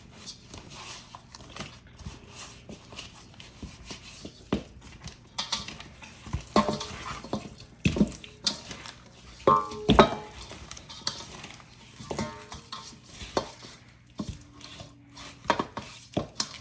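Seasoned raw chicken pieces being handled and placed into a plate, with irregular clinks and knocks against the dish. Twice, about halfway through and again a few seconds later, a knock leaves the dish ringing briefly.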